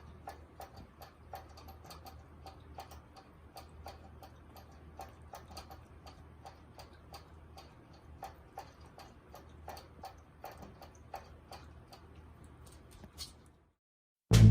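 Light clicks and taps at about three a second, somewhat irregular, like a puppy's claws on a hard floor; they stop abruptly near the end.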